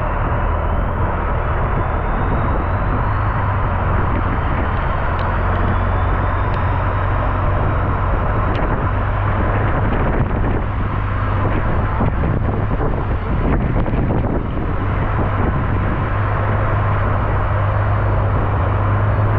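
Engine running steadily with a deep, even hum under a constant rushing noise.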